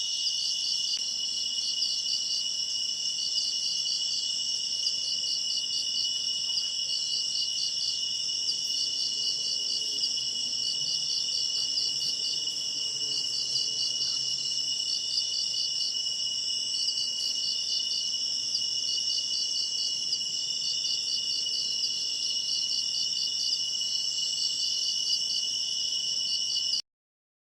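Dense chorus of crickets and other night insects, a steady high-pitched trilling with a fast pulsing rhythm, which cuts off abruptly near the end.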